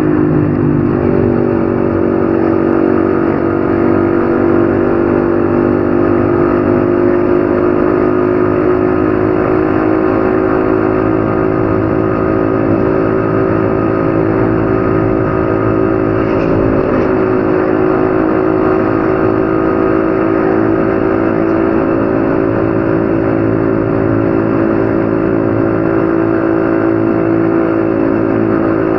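Yamaha XSR155's 155 cc single-cylinder engine running under way at a steady cruising speed. Its pitch drops slightly about a second in, then holds even.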